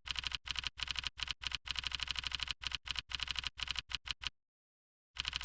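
Rapid, evenly spaced clicking in runs with short breaks, cut by a brief dead silence near the end.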